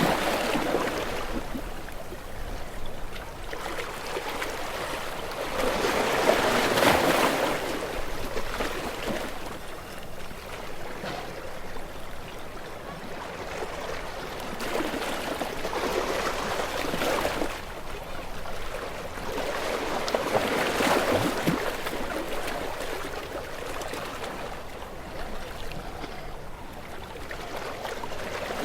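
Sea waves breaking and washing against shore rocks: a steady rush of water that swells into louder splashing surges every several seconds, with quieter trickling wash between.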